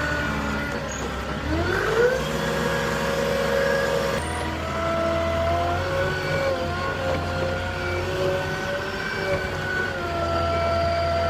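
A heavy vehicle's engine running with a steady whine. About two seconds in it revs up, rising in pitch, then holds at the higher speed.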